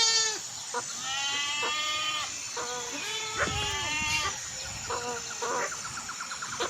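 Goat bleating repeatedly: about four high calls in a row, one of them quavering.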